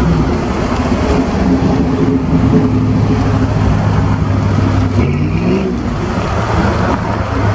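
Pickup truck engine running steadily, with a brief rise in pitch about five seconds in as it revs.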